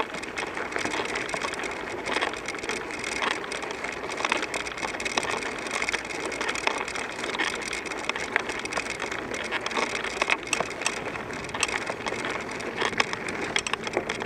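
Bicycle rolling along, with steady tyre noise and frequent small clicks and rattles.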